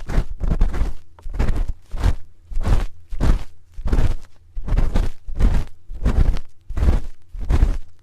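A spoon scraping and rubbing over a microphone's ear close up for ASMR ear cleaning, in repeated strokes at about two a second, each a short scratchy swish with a heavy close-up rumble.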